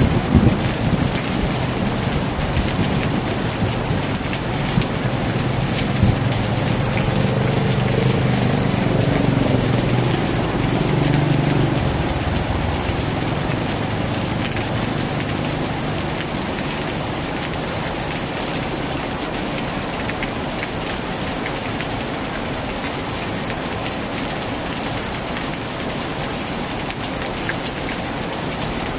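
Heavy rain drumming steadily on a tin roof. A low rumble is dying away at the very start, and another low rumble swells and fades over the first dozen seconds.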